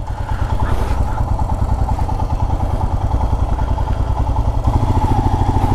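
Motorcycle engine running at low speed with a steady, even chug as the bike is ridden slowly into a parking spot.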